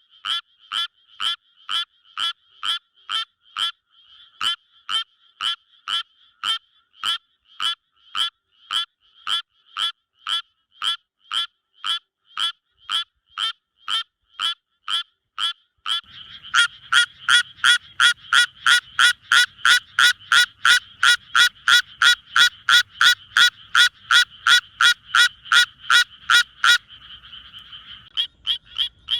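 Frog calling in a long series of short, evenly spaced croaks, about two a second. About halfway through, a louder, faster series of about three a second starts over a low hum, then breaks off near the end into a steady trill before the croaks resume.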